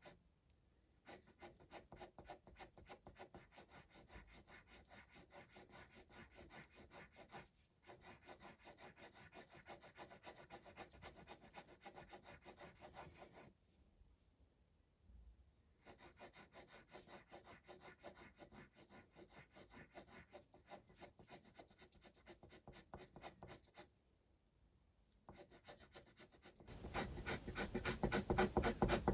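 Graphite pencil shading on sketchbook paper: quick back-and-forth strokes in runs of several seconds, with a few short pauses. The strokes are heaviest and loudest near the end.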